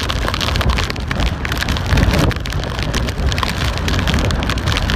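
Hurricane rain driving down hard and wind gusting, with a heavy, uneven low rumble of wind buffeting the microphone.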